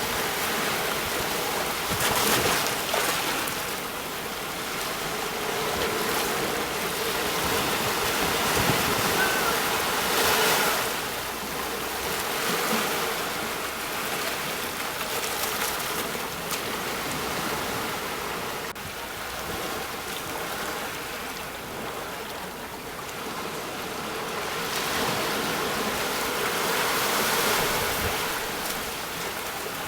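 Sea waves breaking on a shore, a steady rush of surf that swells and eases every few seconds.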